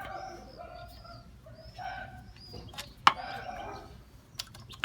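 Small birds chirping over and over in short arched calls, with one sharp loud click about three seconds in and a few lighter clicks near the end.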